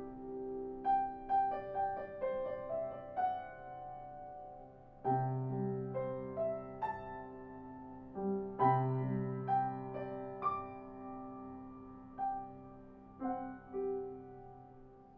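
Slow, soft piano music: a melody of single struck notes that die away, over held low chords that come in about five seconds in and again near nine seconds.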